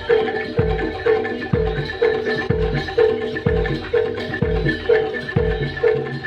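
Jaranan gamelan music: metal percussion ringing in a repeated pattern of notes over a deep drum beat about once a second.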